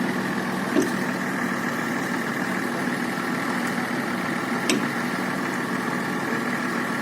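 Toyota Land Cruiser engine idling steadily.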